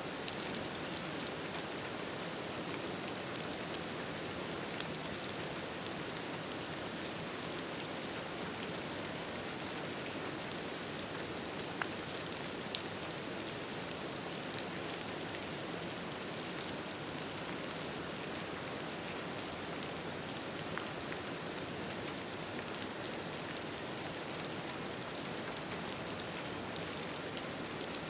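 Steady rain falling, an even hiss of drops, with scattered faint crackles and pops from a wood fire.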